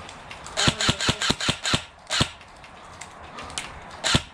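Airsoft guns firing: a quick string of about six sharp shots, a single shot shortly after, and another near the end.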